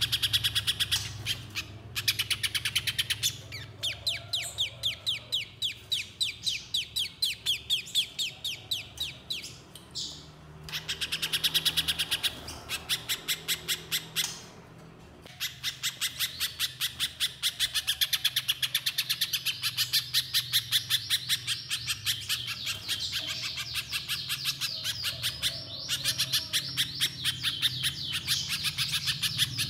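Little spiderhunter calling: long runs of rapid, evenly repeated high, sharp notes, broken by a few short pauses.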